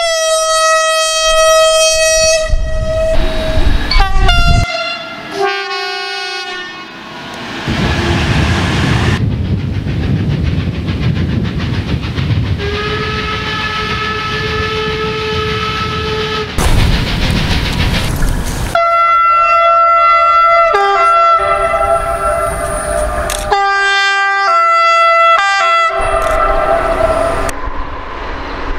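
Makrofon air horns on German trains sounding in a run of separate recordings: a long single tone, then repeated two-tone high–low blasts. In the middle, the rumble and wheel clatter of a passing train, with a fainter horn over it.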